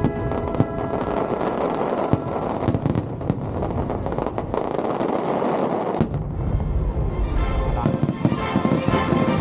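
Fireworks going off in quick bursts with dense crackling, over the show's music. About six seconds in, the music changes to a new passage with heavy low booms and held tones, while the bursts continue.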